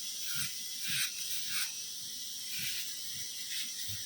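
A dog's soft, irregular breaths, one or two a second, over a steady hiss.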